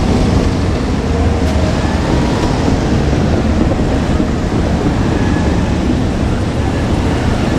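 A JR Kyushu diesel train running by close at hand: a loud, steady noise of engine and wheels on the rails.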